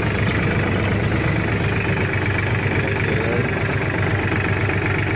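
Tractor's diesel engine running steadily under way, heard from the driver's seat.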